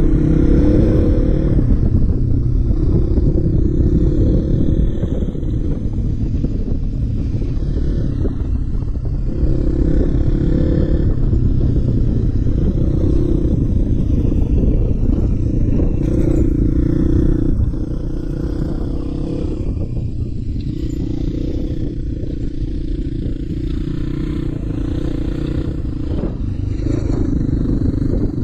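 Suzuki Djebel 250's single-cylinder four-stroke engine running while the motorcycle rides a gravel track. The engine note swells and eases every few seconds with the throttle, over a steady low rumble of tyres and road.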